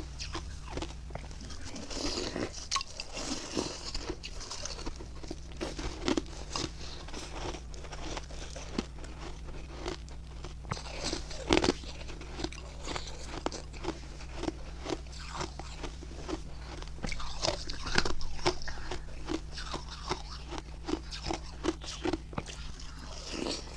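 Close-miked biting and chewing of hard refrozen ice made with milk and matcha powder: an irregular run of sharp crunches and cracks.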